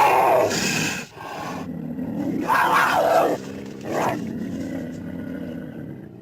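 Big-cat roar sound effects: a series of loud roars and growls, the strongest in the first second and about two and a half seconds in, with a shorter one near four seconds and then fading.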